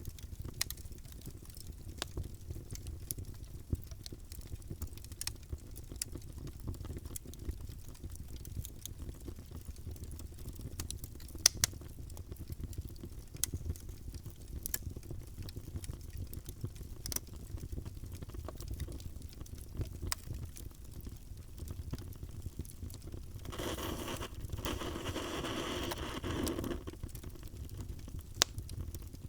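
Wood fire burning in a fireplace: irregular crackles and pops over a low, steady rumble of flames, one pop standing out about a third of the way in. Near the end, a louder hiss rises for about three seconds and then falls away.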